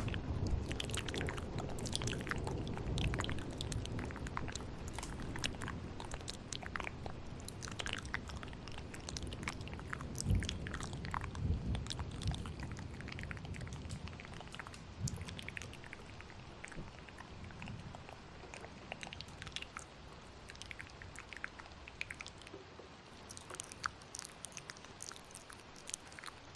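Layered ASMR mouth sounds: many close, wet clicks and smacks in quick succession over a low thunderstorm rumble. The rumble is strongest in the first half and dies away in the second.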